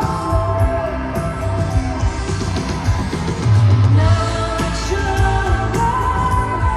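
Indie pop band playing live, with drums, bass, guitars and singing over held, ringing chords.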